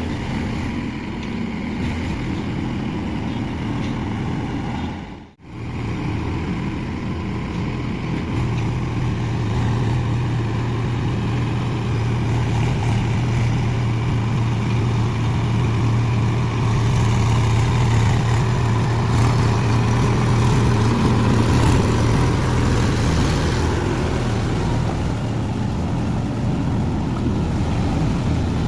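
Tractor's diesel engine running steadily under load. The sound drops out briefly about five seconds in, then comes back and runs a little louder from about eight seconds on.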